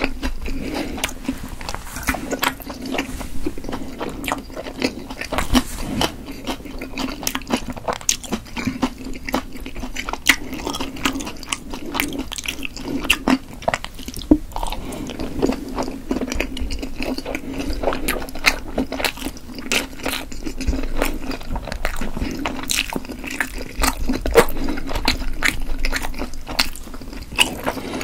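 Close-miked biting and chewing of chewy steamed potato dumplings, with many wet mouth clicks and smacks throughout, over a steady low hum.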